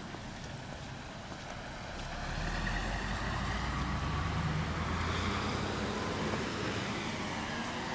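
A road vehicle passing close by: its engine rumble and tyre noise swell about two seconds in, peak in the middle and fade toward the end.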